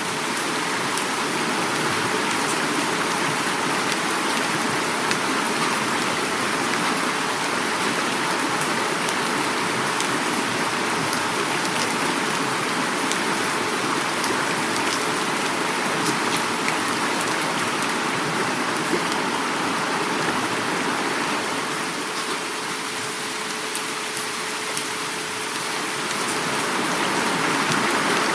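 Heavy rain falling together with flowing river water: a dense, steady hiss with scattered sharp drop ticks.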